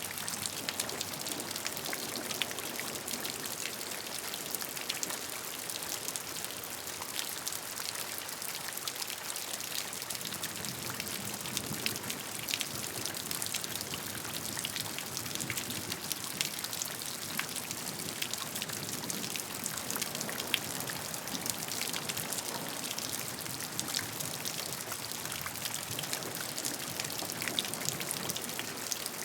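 Steady rain falling, a constant hiss with many individual drops pattering distinctly on a surface.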